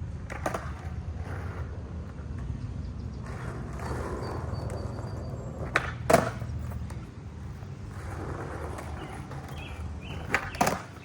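Skateboard wheels rolling over pavement with a steady rumble, broken by sharp clacks of the board: one early, the loudest about six seconds in, and two close together near the end.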